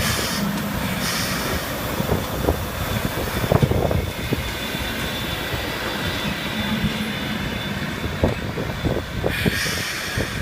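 C12 steam tank locomotive and its train rolling into a station: a steady rumble with irregular clanks and knocks from the wheels and running gear, and a hiss near the start and again near the end. Wind buffets the microphone throughout.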